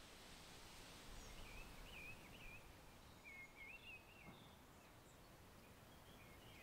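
Faint outdoor woodland ambience with a bird singing short, wavering warbled phrases, two phrases in the first four seconds.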